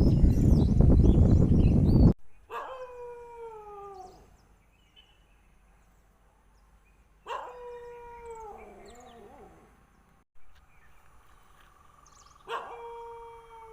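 A dog howling: three long calls about five seconds apart, each held at one pitch and then falling off at the end. Before the first, a loud rushing noise cuts off abruptly about two seconds in.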